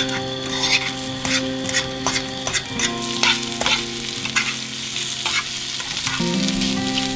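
Scrambled eggs and sliced sausage sizzling in a nonstick frying pan on a camp stove. A fork scrapes and taps against the pan again and again as they are stirred.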